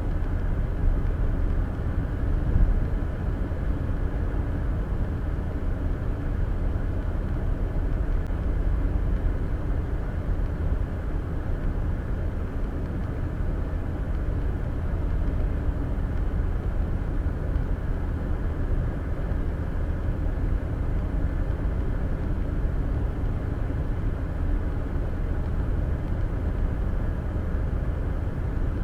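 Steady road and tyre noise of a car driving on the interstate, heard from inside the cabin through the dash cam's microphone: a low, even rumble with a small bump about two and a half seconds in.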